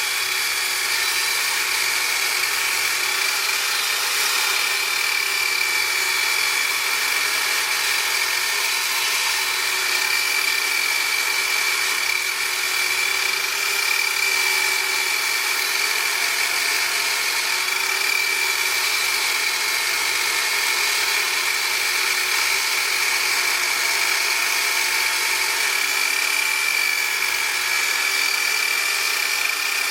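A power tool's electric motor running steadily with a high-pitched whine, at an even speed.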